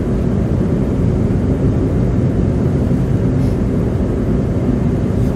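Steady low rumble of car tyres and road noise heard inside the cabin while driving at about 60 km/h through slush on a snow-covered road.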